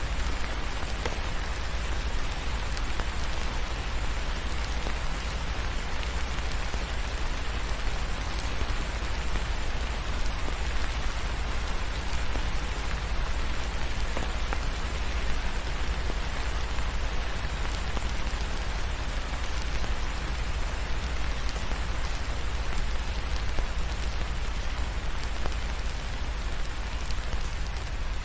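Steady rain falling on a surface, an even hiss with a deep low rumble underneath.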